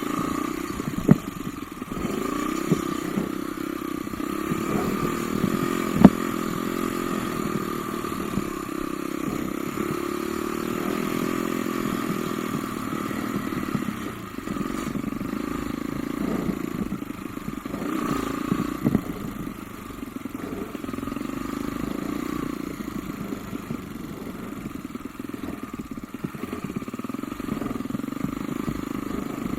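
Off-road motorcycle engine running while being ridden along a rough trail, its pitch rising and falling with the throttle, with a few sharp knocks from bumps in the track.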